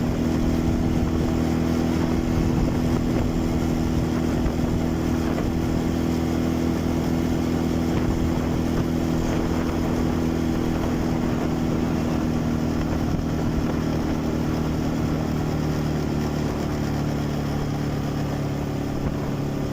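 Quad bike (ATV) engine running at a steady pitch, with wind noise on the microphone.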